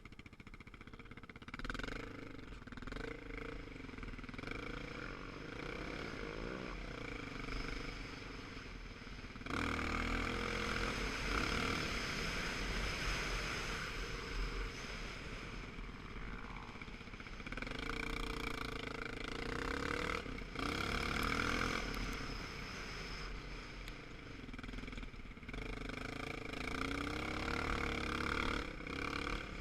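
Motorcycle engine running under way, its revs rising and falling, with a steady rush of wind noise that gets louder about a third of the way in.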